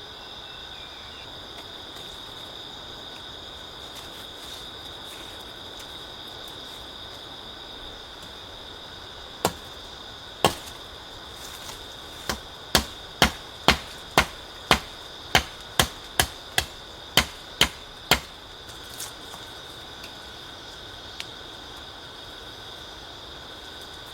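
About fifteen sharp strikes, the first two about a second apart and the rest coming about two a second, over a steady high insect drone.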